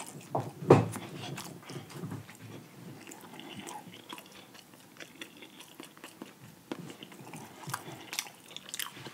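Close-miked chewing of fried chicken: soft wet mouth clicks and smacks, with one louder click a little under a second in.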